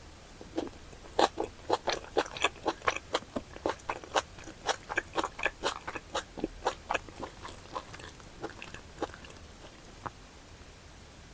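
Close-miked chewing of a mouthful of food with wet smacking, about three chews a second, thinning out and stopping about ten seconds in.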